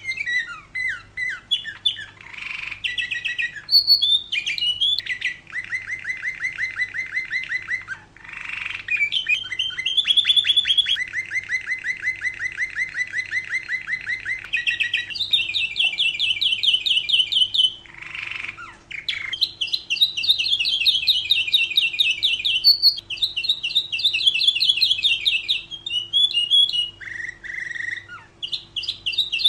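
Domestic canary singing a long unbroken song of fast rolling trills, one run of repeated notes after another at different pitches, with a few short harsh, rasping notes between them.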